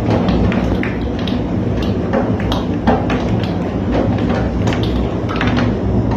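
Hailstones striking hard surfaces in irregular sharp knocks and pings, several a second, over a steady low rumble.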